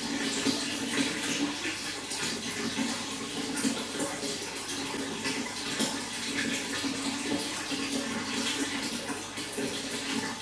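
Running water flowing steadily, an unbroken splashing hiss.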